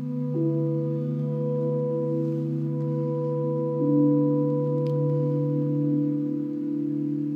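Sustained electronic drone of several layered steady tones from an iPad-controlled sound installation. A new tone enters just after the start and the pitch shifts again about four seconds in, as drawing on the iPad changes the sound.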